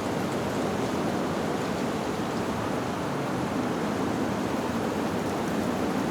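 Steady, even rushing ambient noise with no gusts, swells or single strikes; no wind chimes are heard.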